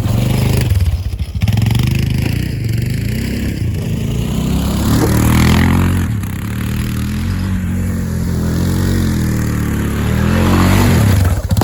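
Enduro dirt bike engine running under way, its pitch rising and falling with the throttle as it is ridden, revving up around the middle and again near the end.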